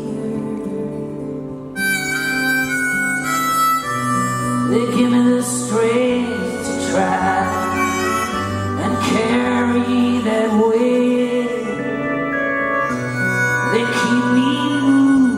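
Live band music in an instrumental passage: a held lead melody over a bass line that moves to a new note every couple of seconds.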